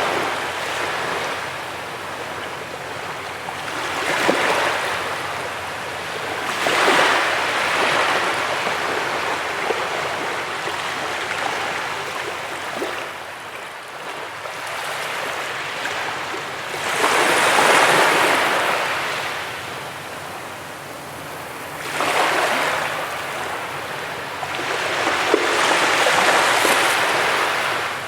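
Waves breaking and washing up a beach, a rushing surge every few seconds that swells and falls away, the biggest about two-thirds of the way through.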